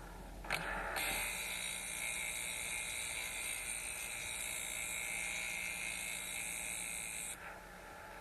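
Dental instrument being honed against the spinning abrasive disc of an Rx System 2 honing machine: a steady, high grinding hiss that starts suddenly about a second in and stops near the end, over the machine's faint steady hum.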